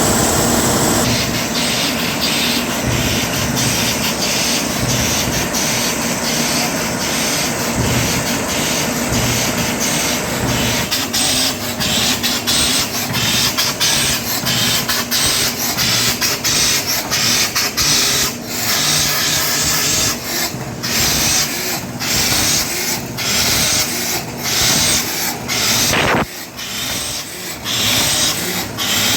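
Cummins diesel engine running on test after a water pump replacement, heard as a steady hum for the first second and then mostly a loud hiss with irregular clatter.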